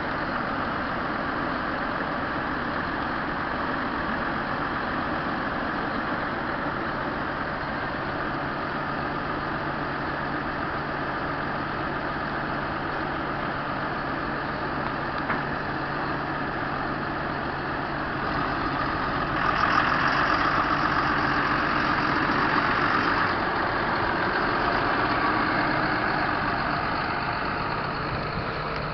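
John Deere 7930's 6.8-litre diesel engine running steadily. About two-thirds of the way in it grows louder for a few seconds, then eases off again.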